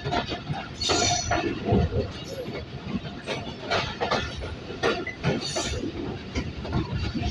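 Moving passenger train heard from aboard: wheels clacking irregularly over rail joints and points, with the coach rattling over a steady rolling rumble.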